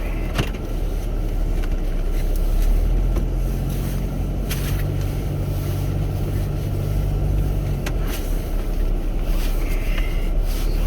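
Chevrolet Captiva SUV driving: a steady low rumble of engine and road noise, with an engine hum that holds one pitch for several seconds in the middle, and a few light clicks.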